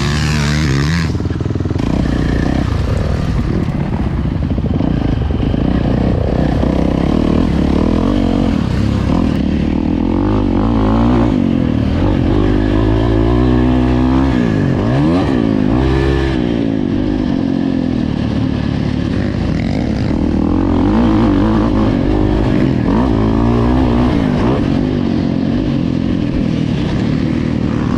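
Dirt bike engine running under changing throttle, its pitch climbing and dropping again and again as it is ridden, with a deep drop and climb back about halfway through.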